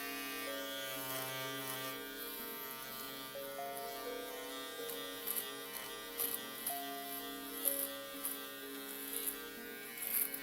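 Electric shaver buzzing steadily, its hum shifting slightly in pitch every second or so, with short high-pitched crackles in the second half as it cuts.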